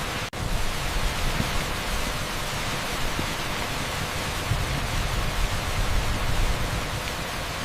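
Torrential rain pouring onto an asphalt street, a dense steady hiss like pink noise, broken by a momentary dropout a fraction of a second in.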